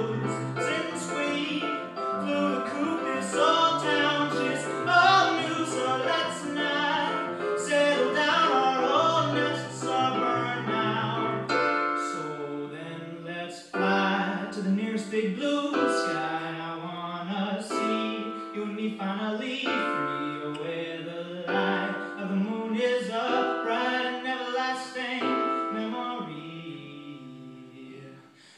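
A male voice singing a song to piano accompaniment, fading quieter near the end.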